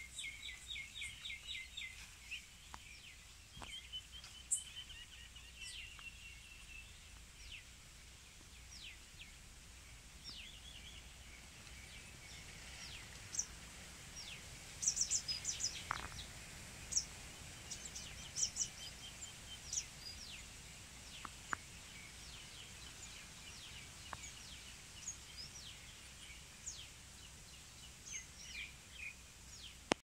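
Small birds chirping and calling: short high chirps and brief rapid trills scattered throughout, with a busier cluster of chirps about halfway through, over a faint steady outdoor background.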